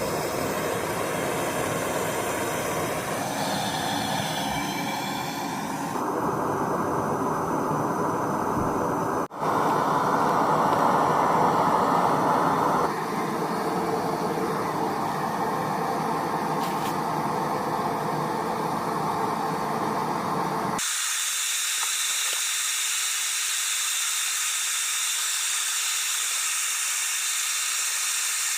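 Small knife forge running with a steady rushing hiss. The sound changes abruptly about 6, 9, 13 and 21 seconds in, and after the last change the low rumble drops out, leaving a thinner hiss.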